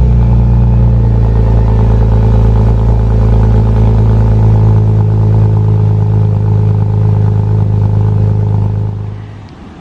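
BMW 330Ci ZHP's 3.0-litre inline-six idling high and steady just after a cold start, through a Dinan exhaust. The sound drops away about nine seconds in.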